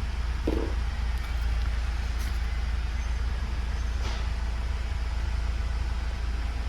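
Steady low rumble of a vehicle, with a short dull knock about half a second in and a fainter click about four seconds in.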